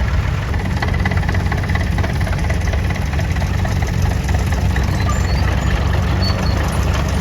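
Vintage tractor engine running at a steady idle, a low, even rumble.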